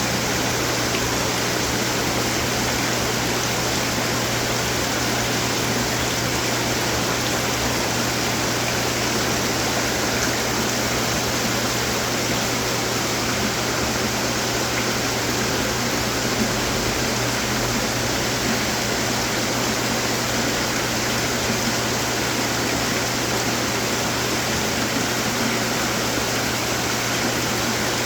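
Steady rush of splashing water from many garden fountains running at once, with a low steady hum underneath.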